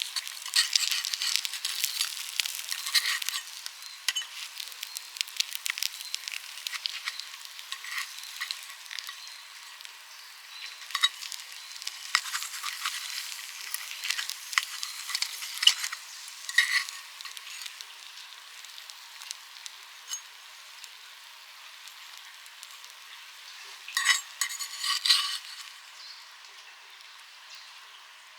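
Food sizzling in a small frying-pan dish, a steady hiss dotted with sharp crackles and clicks. It is busiest in the first few seconds, settles lower, and flares again briefly near the end.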